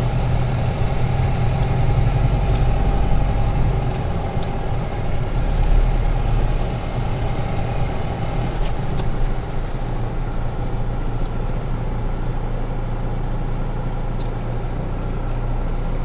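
A car's engine and road noise as it drives up a hill road: a steady low rumble, a little louder in the first few seconds.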